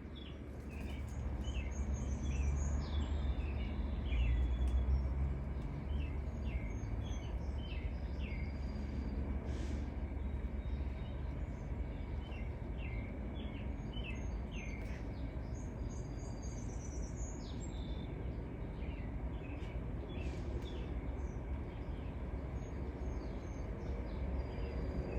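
Great-tailed grackles calling: a steady stream of short chirps and high thin whistles, over a low steady rumble.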